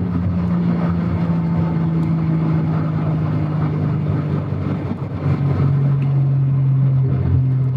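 Turbocharged VR6 engine of a VW Golf 3 running steadily under way, heard from inside the cabin. About five seconds in the sound briefly drops, as in a gear change, and the engine note then carries on at a lower pitch.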